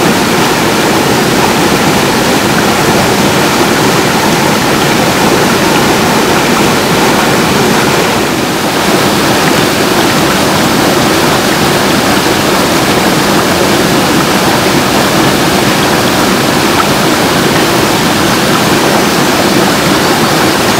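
Mountain stream water running loudly and steadily.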